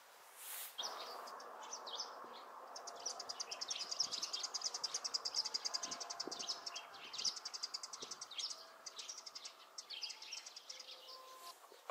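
Birds singing: rapid high chirps and fast trills, starting about a second in.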